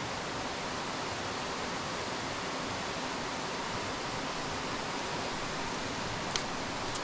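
Steady rush of a rainforest creek running over rocks, with a brief click about six and a half seconds in.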